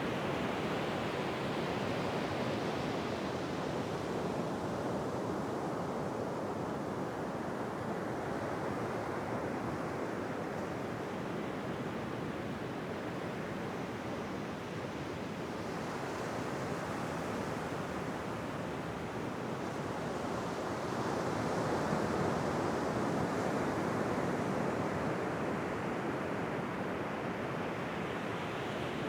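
Ocean surf rushing continuously, swelling near the start and again after about twenty seconds, easing off between.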